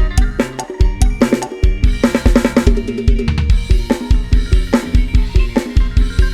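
Upbeat Thai lam sing-style band music led by a programmed Addictive Drums 2 virtual drum kit: a driving, evenly spaced kick drum with snare and cymbal hits, over sustained pitched instrument notes.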